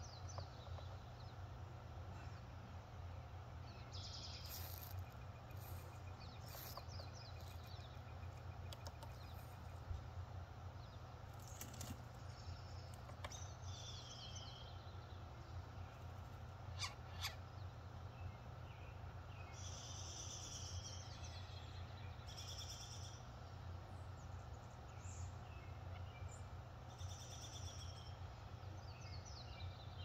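Wild birds calling and singing in short high phrases, spaced out over a steady low hum, with a couple of sharp taps about halfway through.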